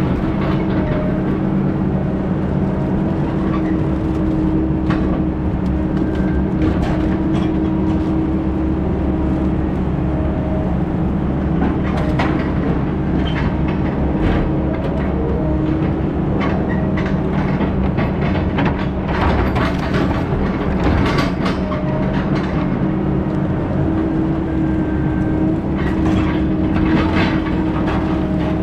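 Heavy diesel engine running steadily, with frequent rattling and clanking over it.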